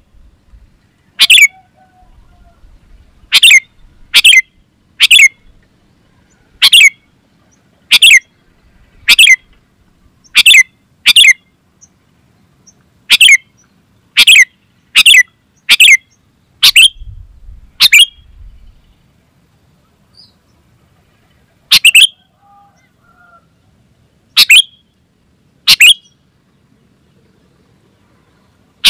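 Sooty-headed bulbul giving short, loud calls, about eighteen of them, roughly one a second with a couple of longer pauses.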